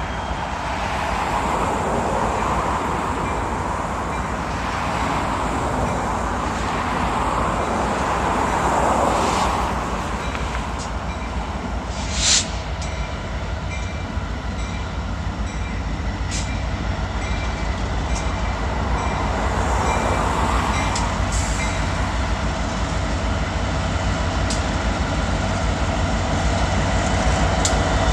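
Freight train cars rolling past, a steady rumble of steel wheels on rail with faint ringing tones, and one sharp clank about twelve seconds in.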